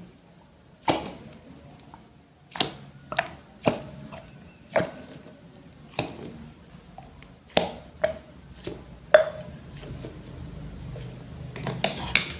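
Wooden toy fruit and vegetable pieces being cut apart with a toy knife: about a dozen sharp wooden clacks and taps at irregular intervals, a few with a short ring, with a quick cluster of them near the end.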